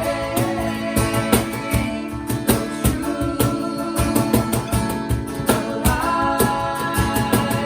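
Worship band playing with guitar and a steady beat while a voice sings.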